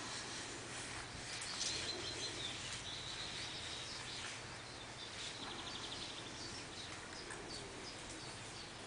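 Outdoor ambience with small birds chirping, including a short rapid trill about halfway through, over a faint steady low hum.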